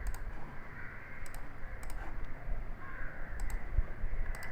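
Computer mouse clicks: a few sharp single clicks about a second apart while a circle is drawn in CAD software, over faint background noise.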